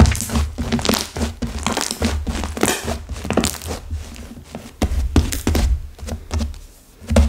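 Clay-mixed slime, its clay set hard, being squeezed and kneaded by hand: irregular crackling and crunching with soft low thuds, in uneven bursts throughout.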